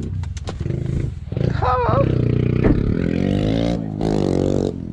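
Small four-stroke pit bike engines running, one revved up and down in quick sweeps from about three seconds in until it drops back near the end. A short voice-like call about a second and a half in.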